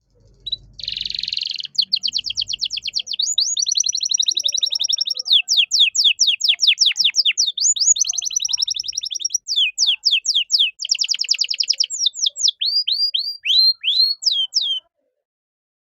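Male domestic canary singing a long song of very fast trills, one phrase after another. It ends with a few separate downward-sliding notes, then stops shortly before the end.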